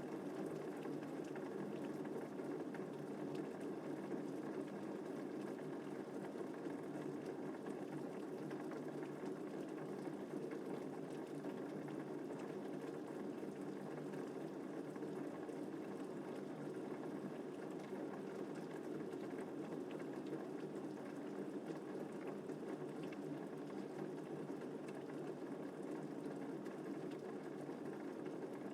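Steady rain falling, an even, unbroken wash of drops with no thunder.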